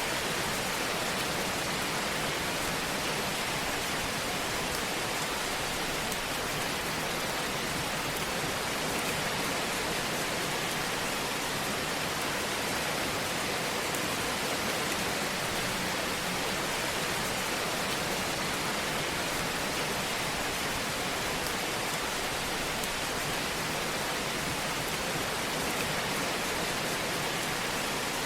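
Fireplace fire burning with a steady, even hiss and faint crackling.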